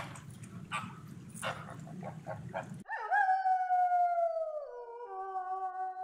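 A few short flamingo calls over a low rumble, then, about three seconds in, a grey wolf howling: one long howl that slides slowly down in pitch and drops lower about a second and a half later.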